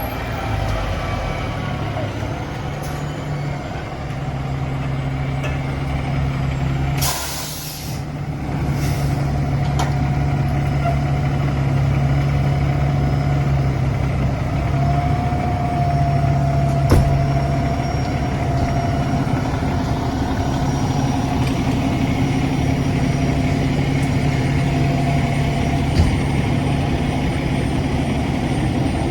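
Fire engine's diesel engine running steadily, with a sharp air-brake hiss about seven seconds in and a fainter hiss a couple of seconds later.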